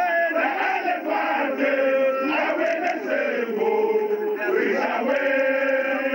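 A crowd of voices chanting together, many pitches overlapping and held in long sung phrases, heard through a narrow, tinny-sounding recording.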